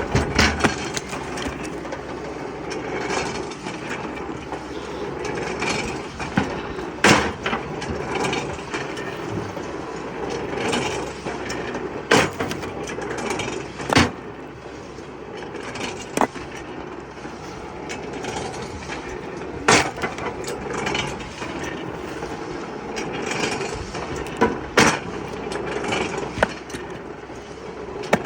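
Woodworking: a steady rough working noise, broken by a sharp knock every few seconds.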